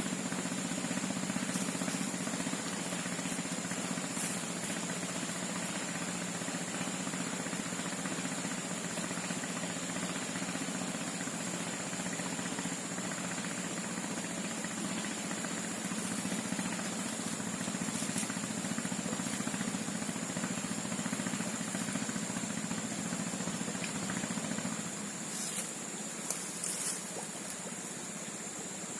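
A steady low hum like a small engine running, under a constant high-pitched drone such as insects make; the hum fades near the end and a few short clicks follow.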